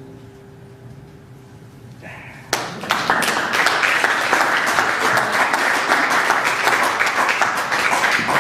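The last guitar notes ring out and die away. About two and a half seconds in, audience applause breaks out suddenly and keeps going.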